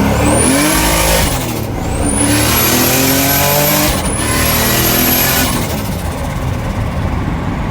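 Turbocharged V6 engine of a Toyota MR2 revving hard under load on the dyno in three pulls. Each pull carries a high whine that rises and levels off, then cuts off suddenly.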